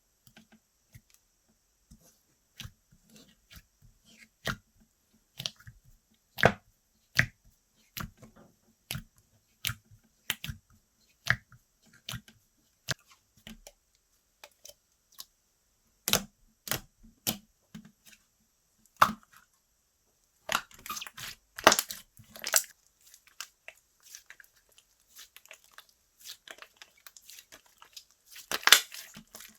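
Slime being squeezed and poked by hand, giving sharp clicks and pops about once a second, with denser bursts of crackling a little past two-thirds of the way through and again near the end.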